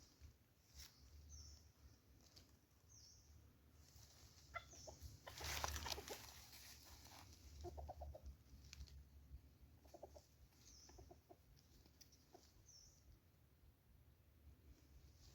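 Junglefowl clucking faintly, several short clucks in the second half, with small high bird chirps now and then.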